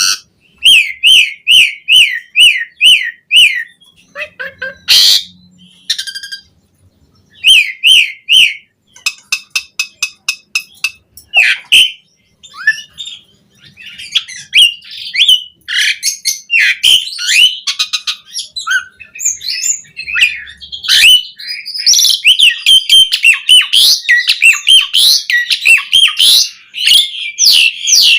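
Asian pied starling (jalak suren) singing a long, varied song. It opens with runs of repeated down-slurred whistles, about two or three a second, broken by a harsh squawk and some clicking notes. In the second half it becomes a fast, dense chatter of mixed notes.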